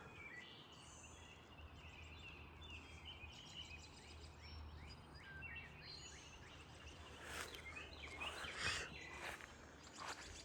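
Faint chorus of several songbirds chirping and singing in short overlapping phrases, with a few louder calls about seven to nine seconds in.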